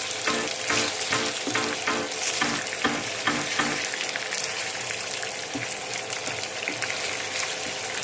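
Broiler chicken sizzling as it fries in oil in a pot, with rhythmic stirring strokes about two to three a second in the first half that stop about halfway through.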